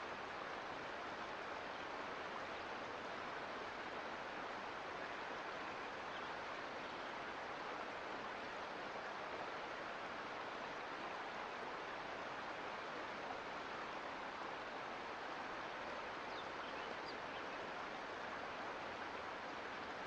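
Steady rush of a Sierra Nevada mountain creek's flowing water.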